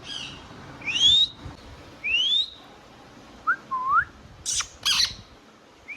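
Indian ringneck parrot whistling: a few quick rising whistles, then a lower rising whistle, followed near the end by two short, harsh calls.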